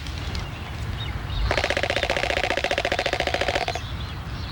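Galapagos albatross courtship display: a rapid run of bill clacks, about a dozen or more a second, lasting about two seconds, with a steady tone sounding alongside.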